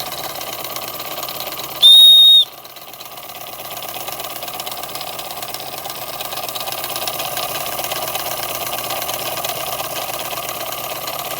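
Empire No. 92 toy steam engine, a single-acting oscillating cylinder fed by a vertical boiler, running steadily at its one fixed speed. About two seconds in a steam whistle blows one loud, steady high note for about half a second, the loudest sound here; after it the engine's running sound drops and slowly builds back up.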